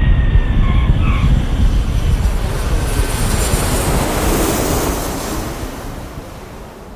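Airliner engine and airflow noise heard inside the passenger cabin: a loud, steady rush, heaviest in the low end, that fades away over the last couple of seconds.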